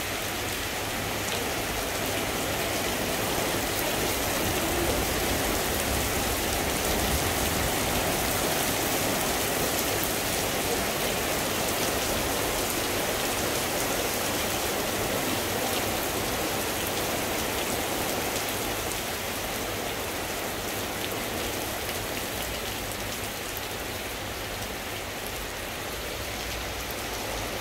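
Heavy rain pouring down onto wet pavement and road, a steady dense hiss that swells slightly early on and eases a little near the end.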